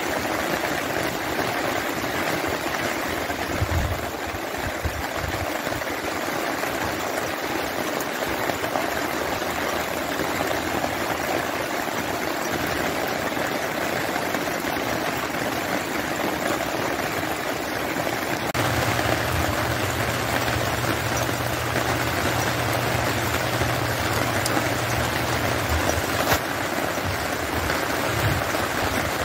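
Steady rain after a storm: an even hiss of falling and running water. A low steady hum comes in about two-thirds of the way through and stops a few seconds before the end.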